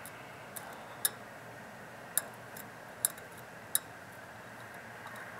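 Five sharp clicks about a second apart, from the Farmall Cub's light switch being worked, over a faint steady hiss. The light stays dark because a wire has come out of it.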